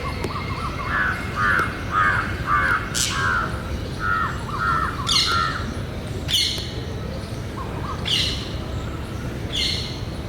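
Rose-ringed parakeets calling: five or six loud, harsh screeches a second or two apart, with a quick run of lower chattering notes in the first half.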